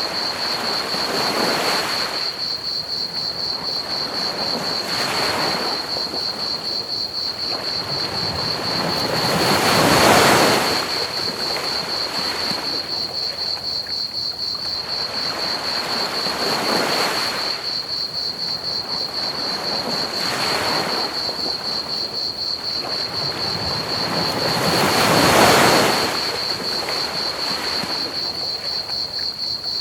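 Ocean waves washing onto a beach, swelling and receding every few seconds, with the two largest breakers about a third of the way in and near the end. Under them runs a steady high trill of crickets chirping, over an even bed of pink noise.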